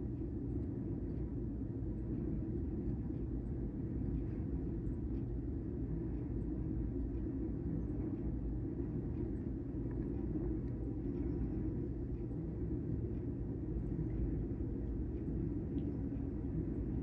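Long freight train passing at a distance: a steady low rumble of the rolling cars, with the drone of its mid-train diesel locomotive.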